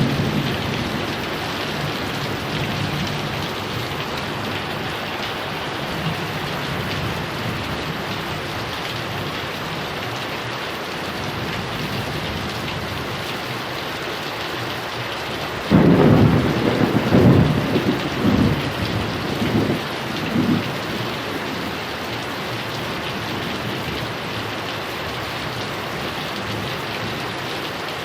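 Heavy rain falling steadily. Near the start a rumble of thunder is dying away, and a little over halfway through a sudden loud thunderclap breaks in and rolls on in several peaks for about five seconds.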